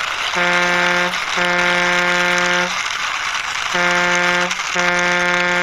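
A truck-horn sound honking in four blasts of one steady pitch, two short and two longer, over a steady hiss, as a toy drum truck is pushed along by hand.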